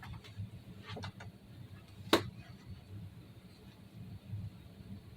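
A sharp click about two seconds in, with a couple of fainter clicks a second earlier, over a low steady hum: handling clicks while getting set to fire an airsoft gun against a shot timer.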